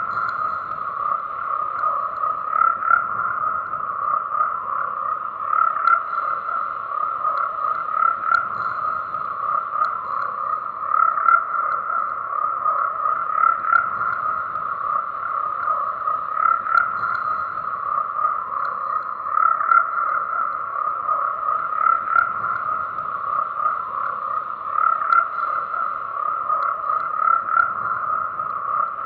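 A dense chorus of many frogs croaking without pause, a steady mass of overlapping calls that swells slightly every few seconds.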